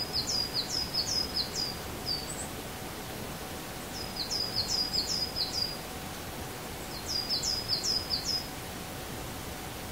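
A songbird singing a short phrase of quick, high, down-slurred notes, repeated three times about three seconds apart, over a steady outdoor hiss.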